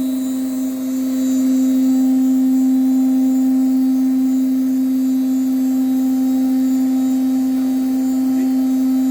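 Pouwels DEF 1000 CNC wood router running: a steady, unwavering hum with a few fainter higher tones above it.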